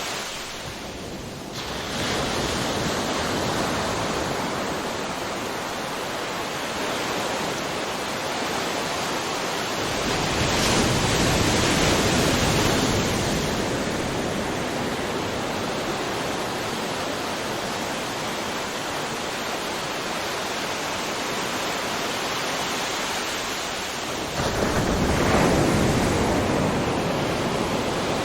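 Ocean surf: a continuous wash of waves breaking and running up the shore, swelling louder about ten seconds in and again near the end as bigger waves crash.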